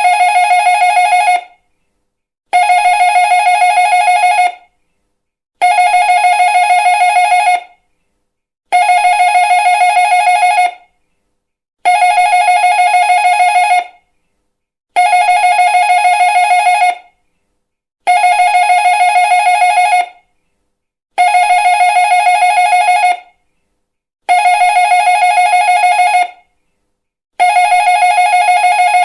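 Electric doorbell ringing with a fast trill, in rings about two seconds long repeated every three seconds or so. This is a recording played over and over to get dogs used to the sound of the doorbell.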